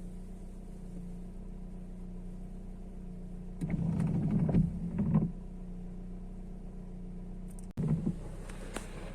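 Motor vehicle running with a steady hum. A louder rush of sound comes about three and a half seconds in and lasts under two seconds, and a shorter one comes near the end.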